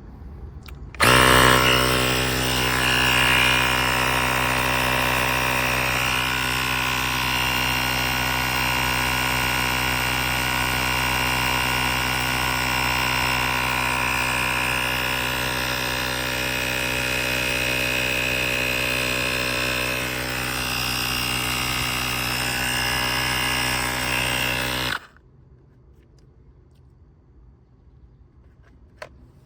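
AstroAI L7 portable electric air compressor switching on about a second in and running with a steady, even-pitched motor hum, then cutting off abruptly near the end.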